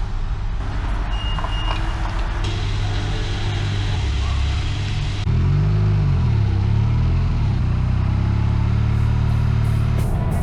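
Motor vehicle engine running with road noise. About five seconds in the sound suddenly gets louder and the engine pitch swings up and down for a couple of seconds before settling steady.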